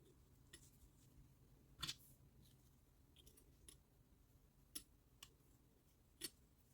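Near silence broken by a handful of faint, sharp clicks at uneven intervals, the loudest about two seconds in.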